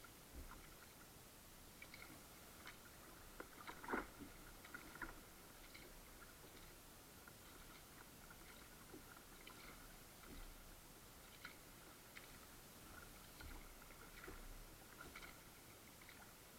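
Faint kayak paddling sounds: irregular small water drips, splashes and light clicks, with one slightly louder knock about four seconds in.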